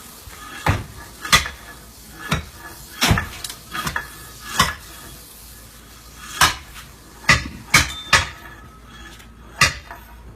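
A metal tool striking hard ground again and again, about a dozen sharp, uneven clanking blows, as a rattlesnake is hit to kill it.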